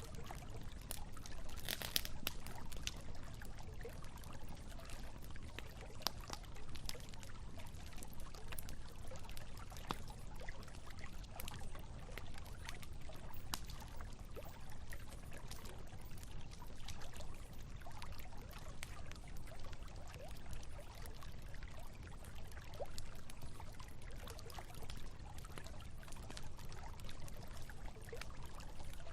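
Campfire crackling with scattered sharp pops, the strongest about two seconds in, over the steady rush of flowing river water.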